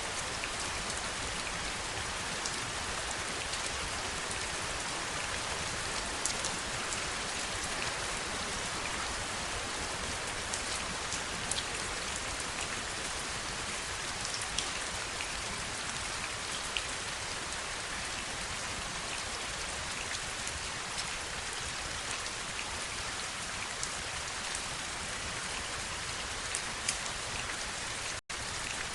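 Heavy rain falling steadily, a dense even hiss with scattered sharper ticks of single drops. A split-second gap in the sound comes about a second before the end.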